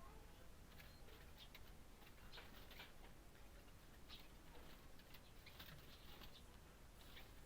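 Faint, irregular short high ticks and chirps of a small bird, a common iora, feeding, over a low steady hum.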